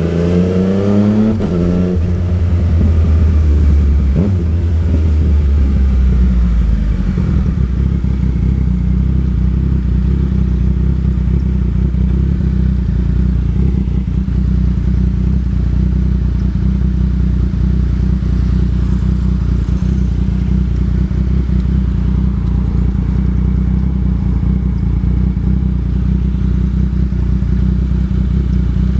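Yamaha MT-09 Tracer's three-cylinder engine pulling hard, rising steeply in pitch for the first second or two. It then drops back and settles into a steady low drone from about seven seconds in.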